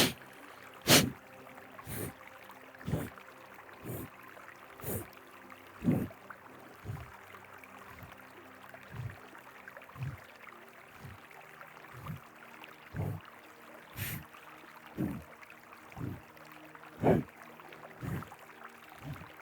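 Forceful nasal exhalations of Kapalabhati breathing through one nostril, a sharp puff about once a second, the first couple strongest, over the steady rush of a river.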